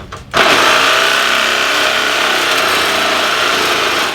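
Power tool cutting into the bent steel frame of a Harley-Davidson Street Glide. It starts abruptly about half a second in, runs steadily and loud, and stops just before the end.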